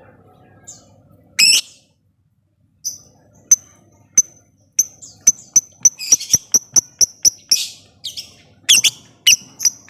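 Lovebird calling: short, sharp, high chips that start sparse and settle into an even run of about three a second, the clicking 'ngetik' call. Several longer harsh squawks are mixed in.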